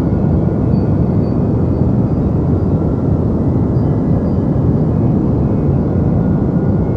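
Steady deep white noise, a continuous low rumbling hiss weighted toward the bass, with no changes or events.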